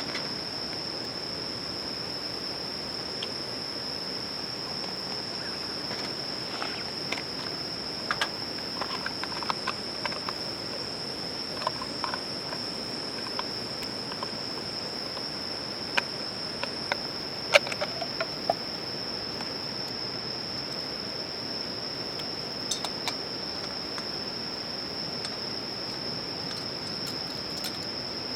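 Insects (crickets) singing one steady, unbroken high-pitched trill, with scattered sharp pops and crackles of a wood campfire, mostly in the middle of the stretch.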